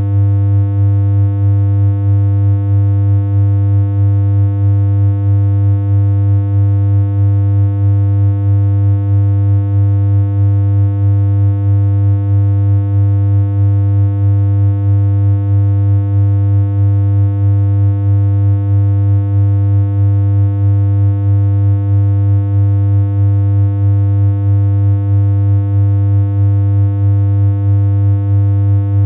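Continuous low synthesized hum: a single electronic tone held at one pitch, with a buzzy ladder of overtones and a slight regular flutter in loudness.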